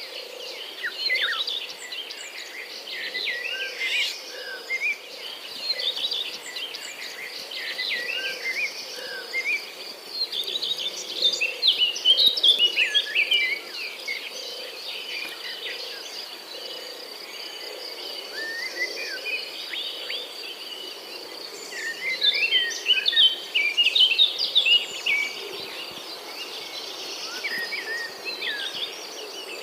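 Outdoor chorus of small birds chirping and singing in short, overlapping phrases, over a steady high-pitched insect trill. The birdsong grows busiest and loudest about a third of the way in and again near three-quarters of the way through.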